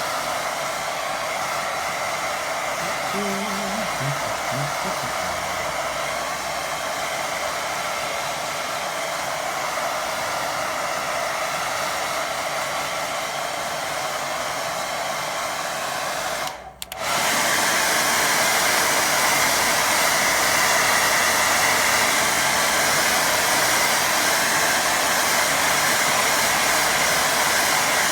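Hair dryer blowing steadily to dry wet watercolour paint, set on low so it doesn't push the paint around. About two-thirds through it cuts out for a moment, then runs a little louder.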